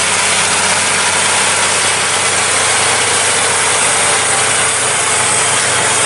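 Pressure washer running and spraying: a steady hiss over a low motor hum.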